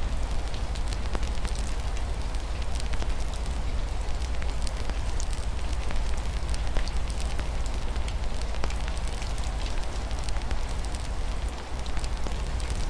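Wood fire crackling with frequent small pops over a steady low rumble, with a steady hiss of rain falling on a window.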